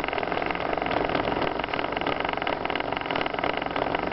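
Boat's outboard motor idling in neutral, a steady fast putter with no change in pace.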